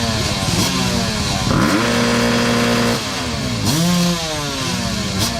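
Dirt bike engine being revved: the pitch repeatedly climbs and drops back, and near the middle it is held at high revs for about a second and a half before falling away.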